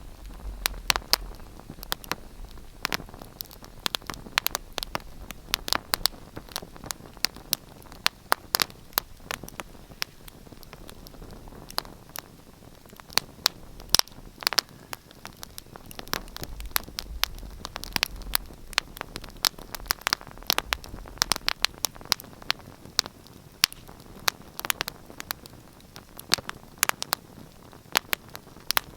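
Wood fire in a fireplace crackling: irregular sharp pops and snaps, several a second, over a steady low hiss of burning.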